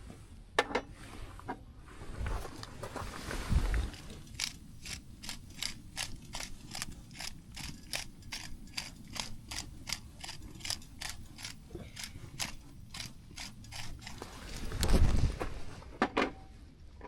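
A steady run of light mechanical clicks, about three a second, lasting about ten seconds, with handling noises around it and a dull thump near the end.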